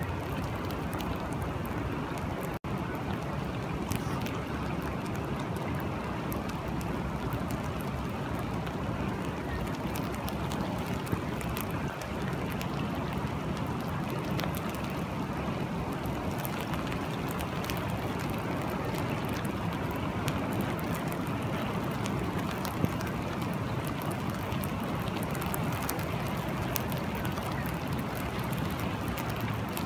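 Steady rain falling, with many fine sharp drop ticks over a steady low rushing. The sound drops out for an instant about two and a half seconds in.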